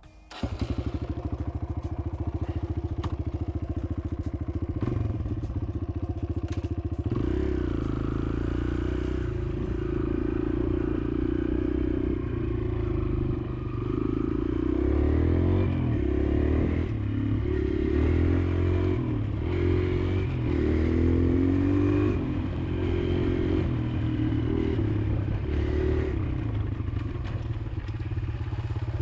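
Kawasaki KLX140L's single-cylinder four-stroke engine running steadily at low revs, then from about seven seconds in revving up and down repeatedly as the dirt bike is ridden.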